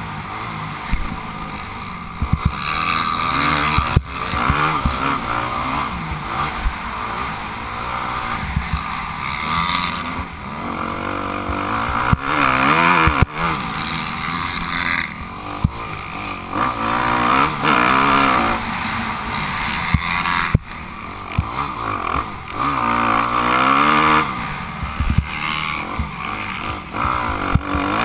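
Motocross bike engine, heard while the bike is ridden, revving up and falling back again and again through the throttle and gear changes. Under it runs a steady rushing noise, broken by a few sharp knocks.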